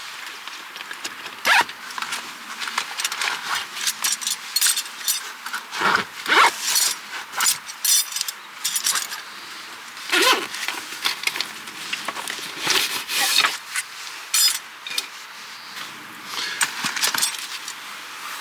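Camping gear being handled: many quick clinks, rattles and rustles, over steady wind hiss.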